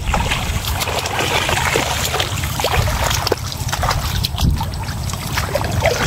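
Water splashing and trickling as fish traps are handled in shallow floodwater, with scattered clicks and knocks. A steady low rumble of wind on the microphone runs underneath.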